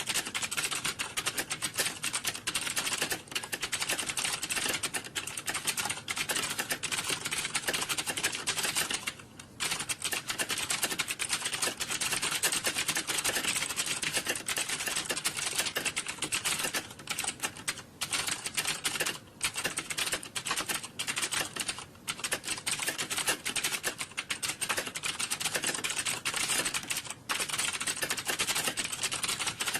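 Rapid typing on computer keyboards: a dense, continuous patter of key clicks, with a few brief pauses.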